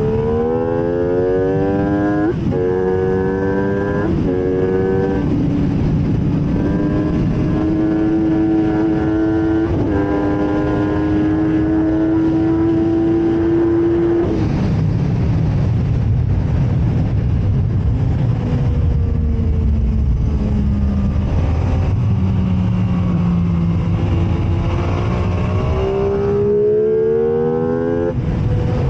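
MV Agusta F3 675's three-cylinder engine on track, accelerating hard through several quick upshifts and then holding high revs. About halfway through the throttle closes and the revs fall into a low rumble for braking and a corner, before it pulls up through the revs again near the end with another upshift.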